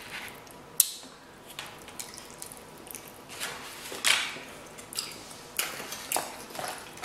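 Close-miked chewing: soft wet smacks and squishes of a mouthful of lasagna, irregular, with a sharp click about a second in. Near the end a fork clicks in the plastic salad container.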